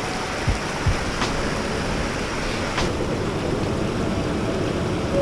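Steady roar of a waterfall running in full flood, mixed with rain. Two low thumps come about half a second and a second in.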